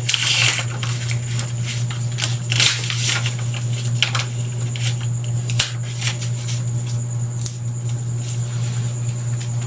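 Classroom room tone during a written quiz: a steady low hum and a faint high whine, with scattered light taps and paper rustles.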